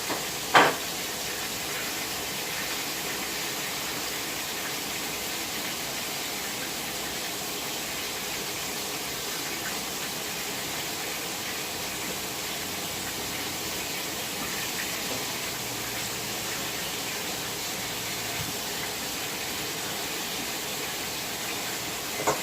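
Kitchen tap running steadily, with a single sharp knock about half a second in.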